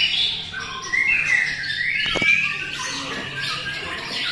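White-rumped shamas singing in a song contest: several loud whistled and trilled phrases overlap throughout. A single sharp click comes about two seconds in.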